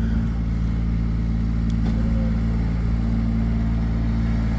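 A vehicle engine running steadily at an even pitch without revving.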